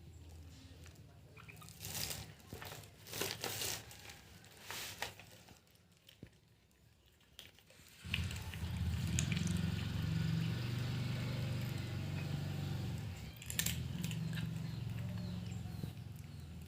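A cat crunching dry food in scattered crisp bites. About halfway through, a steady low droning hum sets in and carries on under the chewing.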